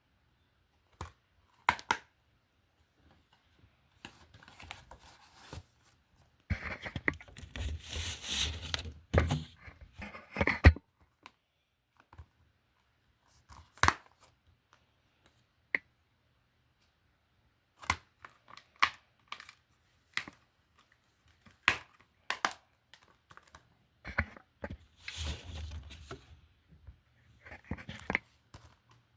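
Plastic DVD and Blu-ray cases being handled: scattered sharp clicks and knocks, with two longer spells of crinkling and rustling, one from about seven to eleven seconds in and a shorter one near the end.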